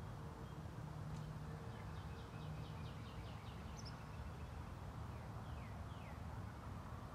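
A small songbird calling over a steady low hum. There is a quick rising note about a second in, then a rapid even series of short notes, and two falling notes near the end.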